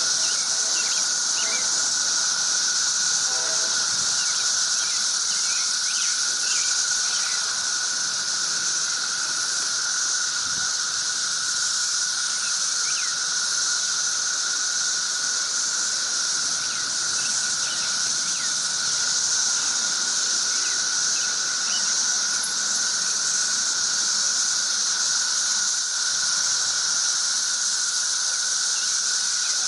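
Dense cicada chorus: a steady, unbroken high-pitched drone with a second, lower steady tone under it, and a few faint short chirps scattered over it.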